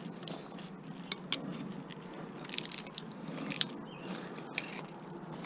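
Metal-on-metal clicks and short scraping crunches as the copper winding is pried and pulled out of a small electric motor, with two louder scraping bursts about halfway through.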